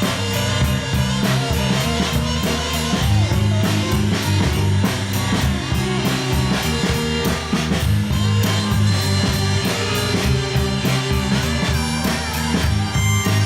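A rock band playing: keyboard, bass guitar and drum kit, with a strong bass line and a steady drumbeat.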